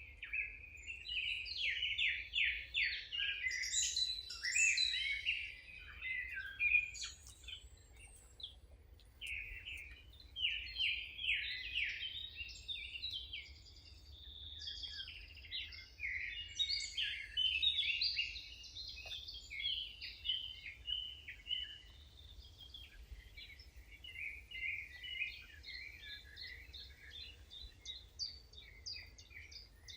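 Several songbirds singing and chirping in dense, overlapping phrases, busiest in the first twenty seconds and sparser after, over a steady low background rumble.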